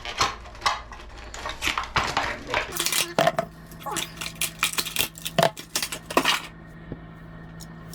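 Shower-head parts being handled, a dense run of sharp clicks and clatters that stops about six and a half seconds in. A faint steady low hum starts about three seconds in.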